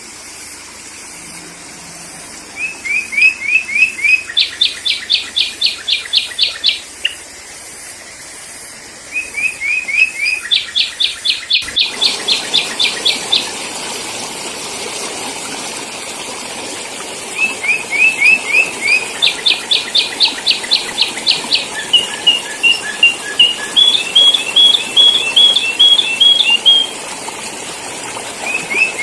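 Sooty-headed bulbul (kutilang) lure song: repeated phrases of a few quick rising notes followed by a fast run of sharp, high chirps, about seven a second. A brief dropout comes about twelve seconds in, with a steady hiss underneath afterwards.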